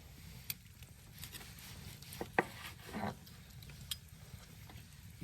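Scattered light clinks, taps and short scrapes of a knife against metal cookware, a few sharp ticks spread over several seconds.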